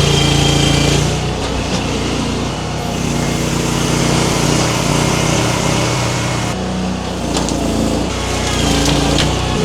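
Small engine of a mini skid steer running steadily, its note changing abruptly several times, with a few sharp clicks or knocks.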